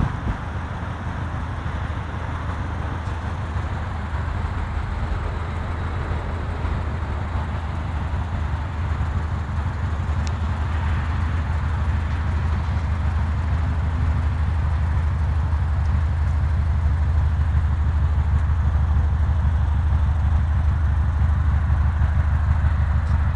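1999 Subaru Legacy B4 twin-turbo's 2.0-litre flat-four boxer engine idling steadily with a low, even pulse, getting gradually louder.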